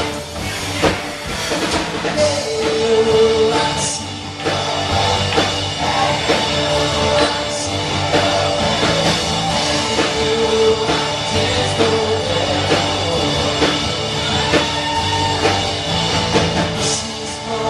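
Live worship band playing a rock-style song: drum kit, guitars and sustained keyboard or guitar notes, with some singing.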